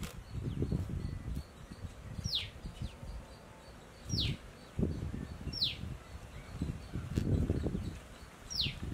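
A bird calling four times, each call a short, sharp whistle that slides steeply downward in pitch, with low rustling noise underneath.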